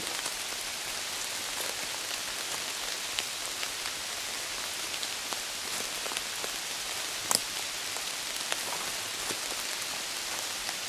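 Steady rain falling: an even hiss dotted with the ticks of single drops, one sharper tap about seven seconds in.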